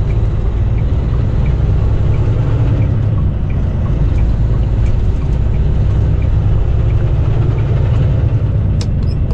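Semi truck's diesel engine running as a steady low rumble heard inside the cab, with a turn signal ticking about twice a second. A sharp click comes near the end.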